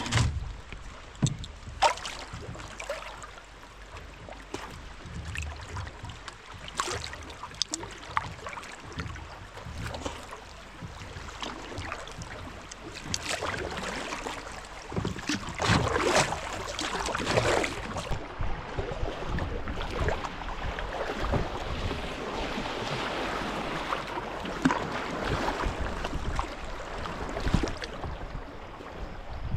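Canoe paddles dipping and splashing in river water, with scattered sharp knocks and wind buffeting the microphone.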